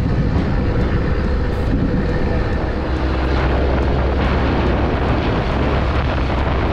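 A vehicle running steadily, with a low rumble and wind rushing over the microphone.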